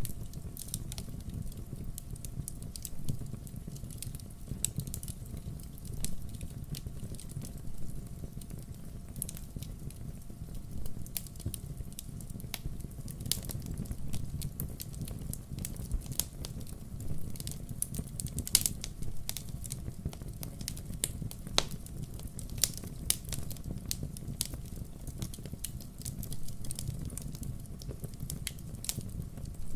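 Wood fire burning steadily, with a low rumble of flame and frequent irregular crackles and pops from the burning logs.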